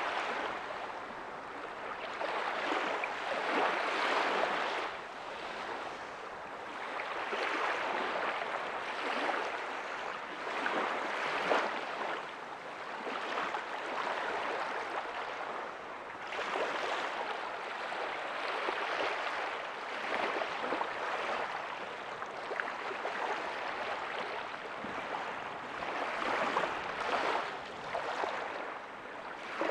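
Small ocean waves breaking softly on a beach: a hiss of surf that swells and ebbs every few seconds, with little low rumble.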